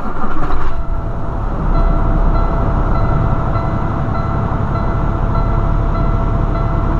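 Semi truck's diesel engine cranking, catching and settling into a steady idle. A steady high-pitched warning tone comes on about a second in and holds.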